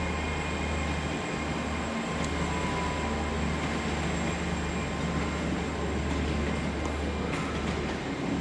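Ten-coach GWR Class 802 bi-mode train, two five-car units coupled, departing the platform on its underfloor diesel engines, with a steady low engine hum and rolling noise.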